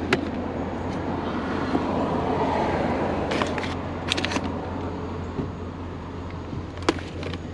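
A car's engine and cabin noise running steadily, heard from inside the vehicle, with a few short clicks and rattles of a cord and plug being handled.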